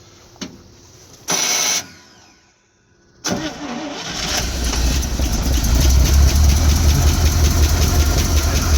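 International 345 V8 of a 1974 International 1600 truck on a first cold start on full choke after sitting for years: a short loud burst about a second and a half in, then from about three seconds in the engine cranks, catches and runs, growing louder and settling into a steady, loud run.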